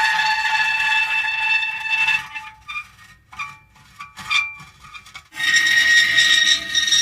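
Metal creaking: a long, steady squeal of several held pitches, then a few short scattered squeaks, then another long squeal at a higher pitch starting a little after five seconds in.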